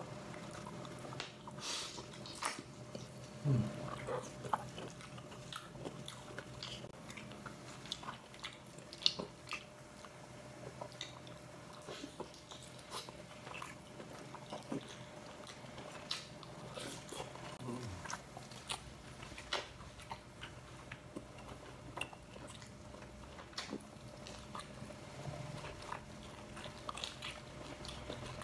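A man chewing and biting squid close to the microphone: irregular small crunches and wet mouth clicks, with a faint steady hum underneath.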